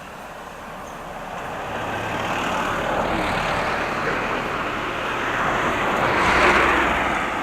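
A road vehicle drives past, its engine and tyre noise growing louder over several seconds, peaking near the end, then starting to fade.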